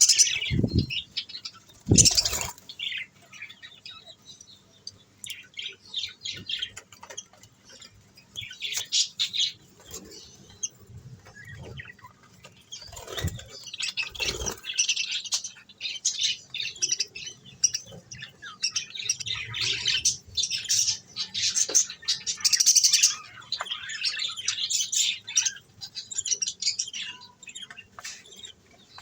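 Budgerigars chirping and squawking in quick, busy bursts, with a few dull knocks.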